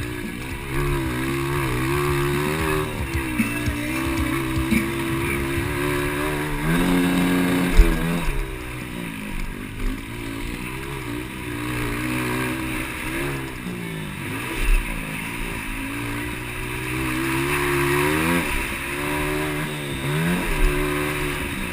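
Motocross bikes of the 200cc class racing, engines revving up and dropping back over and over as the riders work the throttle and gears.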